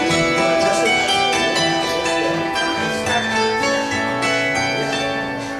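A live acoustic instrumental duo playing a melodic piece: many ringing, struck or plucked notes over held lower tones.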